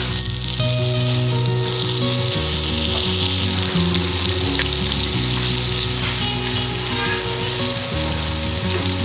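Bacon-wrapped enoki mushroom rolls sizzling in hot peanut oil in a frying pan as they are laid in, over background music.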